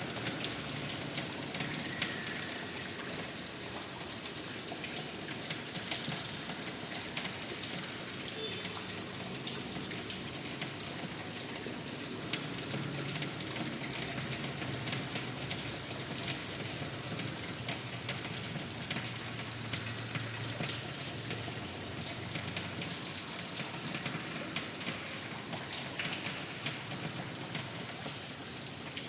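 Steady rain falling, with a short high chirp repeating roughly once a second.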